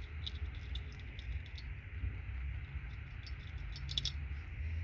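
Small irregular clicks and ticks of metal contact pins being worked loose by hand from a plastic RJ45 patch-panel connector block, over a low steady hum.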